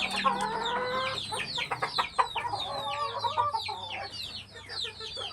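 A flock of Ayam Arab chickens clucking and calling, with a dense chatter of short high chirps and a couple of longer calls, one at the start and one about three seconds in.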